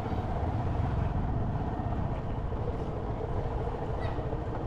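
Motorcycle running steadily while being ridden, a continuous low rumble with road noise.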